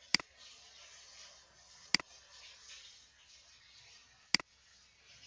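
Three sharp computer mouse clicks, about two seconds apart, each a press followed at once by a softer release, over faint room hiss.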